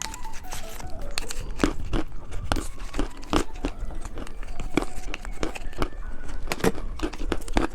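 Irregular sharp crackles and clicks as a cookie-egg candy and its plastic packaging are handled and opened, several louder snaps among them.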